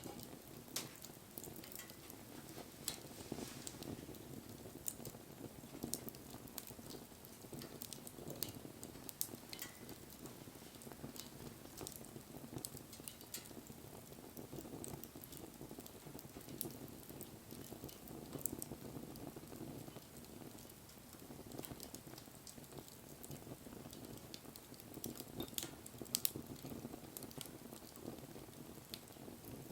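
Wood campfire burning: scattered crackles and pops over a low, steady rush of flame, with a couple of louder pops near the end.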